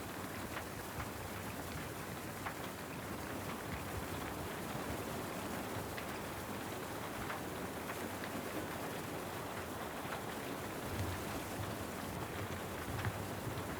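Steady rain falling, an even hiss with scattered sharper drop taps, and a few soft low thumps in the last few seconds.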